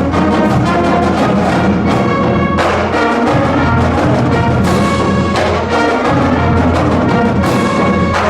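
High school marching band playing loudly: brass section over heavy drums.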